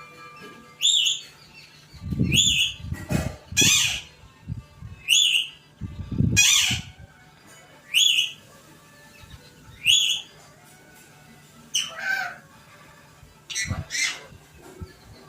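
Pet parrot giving short, harsh squawks, one every second or two, about nine in all. Low thuds sound under two of the calls.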